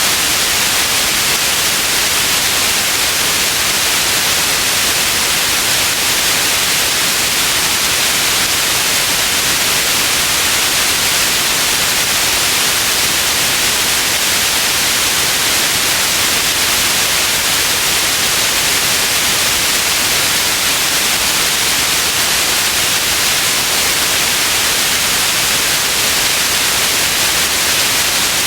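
Steady white noise: an even, unbroken hiss that is brightest in the high range and never changes.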